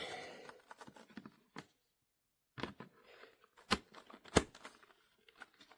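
Small plastic clicks and handling noises as a helmet brake light is worked onto its snap-on mount, with two sharper clicks a little past the middle as it clicks into place.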